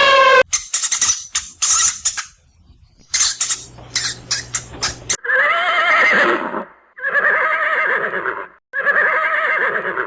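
Horse whinnying three times in the second half, each call about a second and a half long with a wavering pitch. Before that comes a run of short, sharp sounds.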